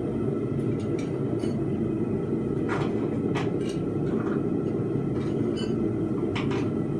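A forge running with a steady low roar, with a few faint light clicks of metal over it.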